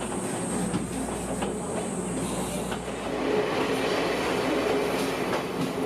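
Diesel-hauled trolley train running along the track: a steady rumble with an engine hum and clicks of the wheels over rail joints, growing louder about three seconds in.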